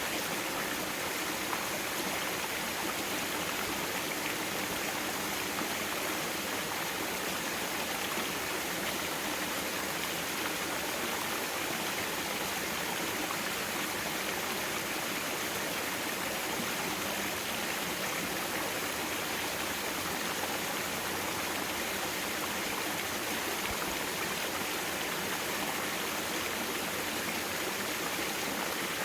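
Mountain stream flowing steadily over rocks: an even, unbroken rush of water.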